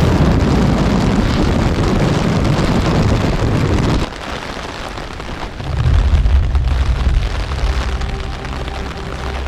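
Storm wind gusting onto the microphone, a loud low rumbling rush that cuts off abruptly about four seconds in. After that comes a quieter hiss with a steady low hum of background music.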